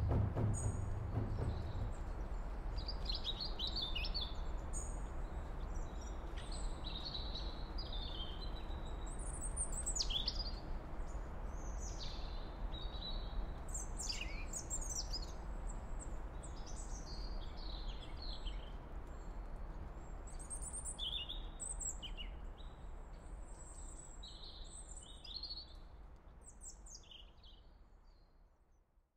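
Short, high chirps and quick downward-sweeping calls, like small birds calling, over a steady low rumble. Everything fades out near the end.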